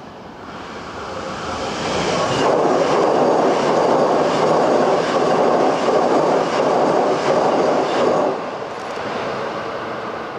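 Hankyu maroon electric train passing close at speed: the noise builds over the first two seconds into a loud rush of wheels on rail with a run of sharp clicks, then drops off suddenly about eight seconds in as the train clears, leaving a lower rumble.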